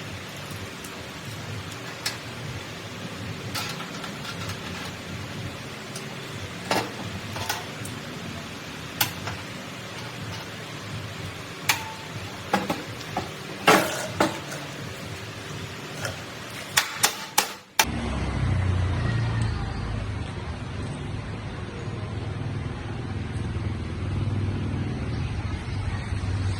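Workshop sounds: scattered sharp metal clicks and knocks over a steady hiss, then after an abrupt cut a steady low machine rumble.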